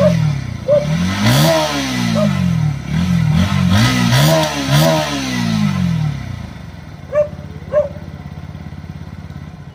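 Bajaj Pulsar NS160's 160 cc single-cylinder, oil-cooled twin-spark engine, revved at standstill by hand through its underbelly exhaust: about five throttle blips, each rising and falling in pitch, several in quick succession, before it drops back to idle for the last few seconds. Two short sharp sounds come near the end.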